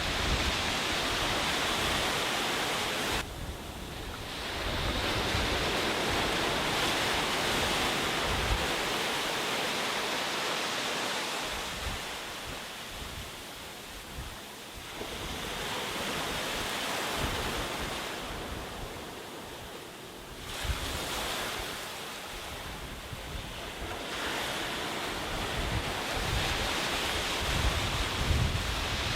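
Sea waves breaking and washing up a beach, the surf swelling and easing several times, with wind buffeting the microphone.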